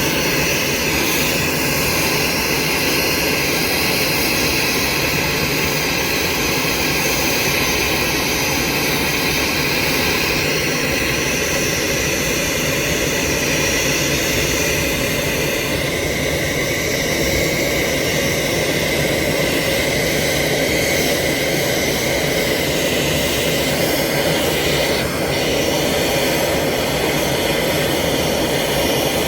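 Airbus A340 jet engines running steadily: a loud, even rush with a high whine held over it.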